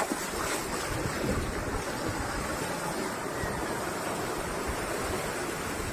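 Sea surf washing onto the beach, a steady rush of breaking waves, with wind rumbling on the microphone.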